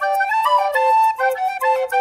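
Background music: a lively flute-like melody of quick short notes.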